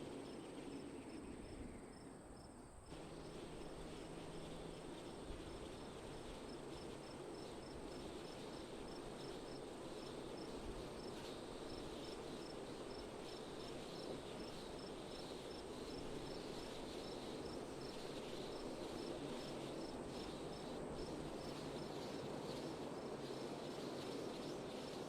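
Wind blowing steadily with crickets chirping in a regular rhythm throughout, after a brief lull about three seconds in.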